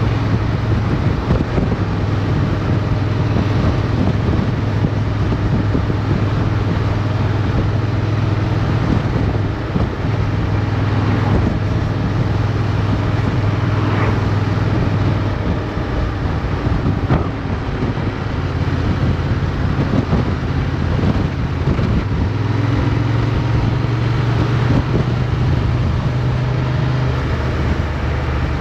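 Motorcycle engine running under way, with wind rushing over the microphone. The engine note drops back in the middle and picks up again about two-thirds of the way in.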